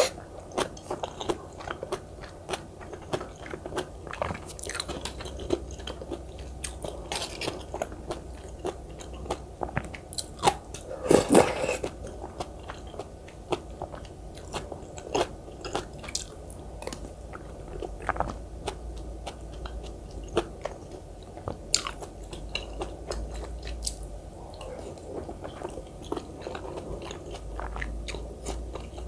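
Close-miked eating of rice cake dumpling soup and cubed radish kimchi: steady chewing and biting with frequent crisp crunching clicks. There is one louder burst of sound about a third of the way through.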